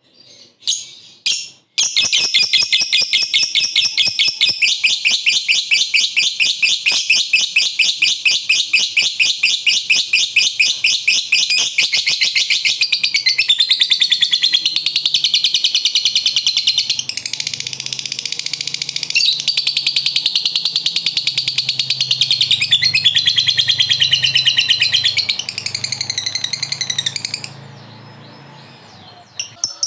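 Lovebird giving a long 'ngekek': a continuous rapid chatter of high, shrill notes repeated many times a second. It starts about two seconds in and runs unbroken for some 25 seconds before stopping near the end.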